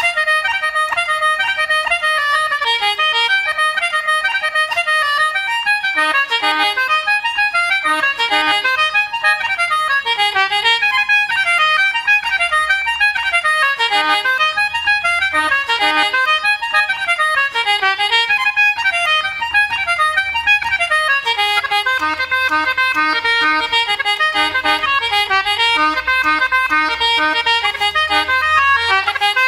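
Accordion playing a lively Irish traditional instrumental tune in quick runs of notes, with lower bass accompaniment coming in partway through.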